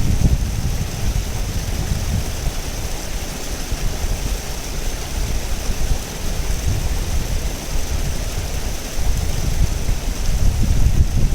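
River water flowing and rushing steadily, a continuous hiss over a deep rumble that swells near the end.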